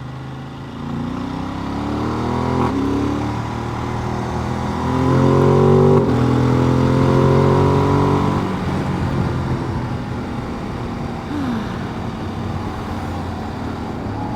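Motorcycle engine accelerating up through the gears, its pitch climbing in steps with shifts about three and six seconds in, then settling into a steady cruise with road and wind noise.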